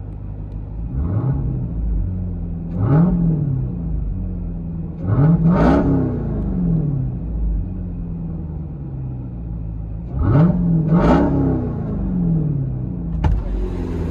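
Jeep Grand Cherokee Trackhawk's supercharged 6.2L V8 idling through an aftermarket exhaust and revved in short blips. There are single revs about one and three seconds in, then quick pairs of revs around five and ten seconds in, each rising and falling back to idle. A sharp click comes near the end.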